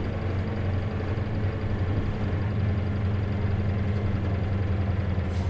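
Diesel engine of an Isuzu KC-LV380N city bus running steadily, heard from inside the bus as a continuous low hum.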